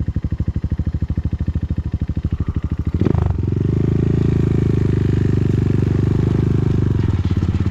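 Motorcycle engine running at low revs with a distinct, even pulse; about three seconds in the throttle opens and it settles into a steadier, slightly louder running sound, easing back to the slow pulsing near the end.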